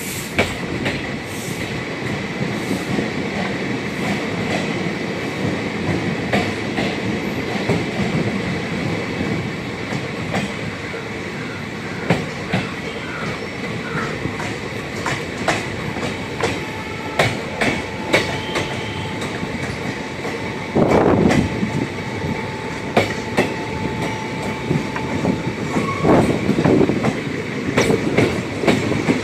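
Passenger coach of an Indian Railways train pulling out of a station, heard from the coach window: a steady running rumble, with the wheels clicking over rail joints more and more often as it gathers speed. A faint wheel squeal is held for several seconds midway, and there are two louder stretches of clatter near the end.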